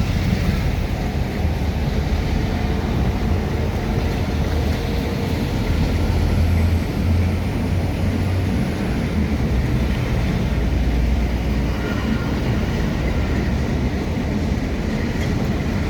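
Train running by with a steady, heavy rumble.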